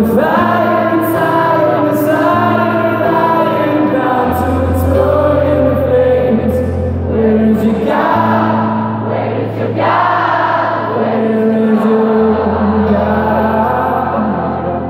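Live acoustic rock band performance: singing over sustained low notes that shift every couple of seconds.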